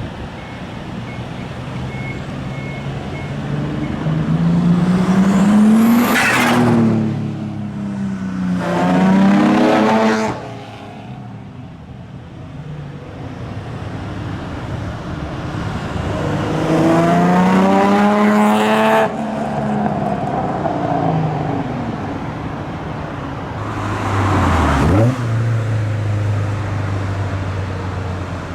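Old cars accelerating past one after another, engines revving hard, each pitch climbing and then dropping as the car goes by. There are about four loud passes, with a steadier engine note between them.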